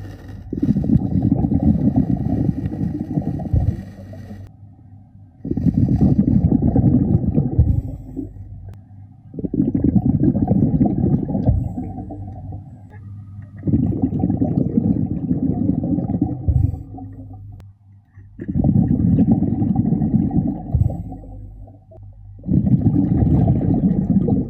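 A scuba diver breathing through a regulator, heard underwater: a rumble of exhaled bubbles every four seconds or so, about three seconds each, with quieter inhalation gaps between, six breaths in all.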